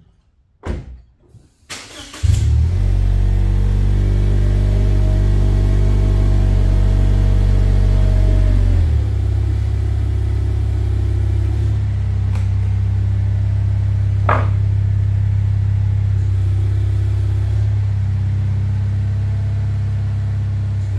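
Lexus IS sedan engine starting about two seconds in, after a couple of knocks, then idling steadily. Its idle note drops a step about nine seconds in, and there is a single sharp click near the middle.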